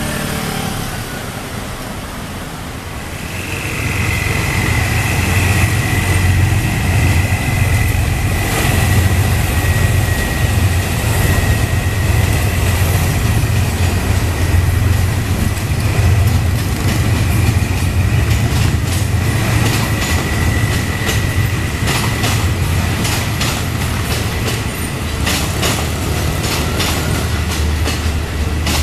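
Thai passenger train running on the line: a loud steady rumble, with a long high squeal that stops about two-thirds of the way through. Near the end come repeated clacks of wheels over the rail joints.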